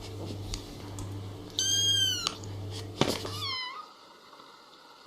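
A cat meowing twice: a long, high, arching meow about a second and a half in, then a shorter, falling one. A low hum under the calls stops abruptly after the second meow.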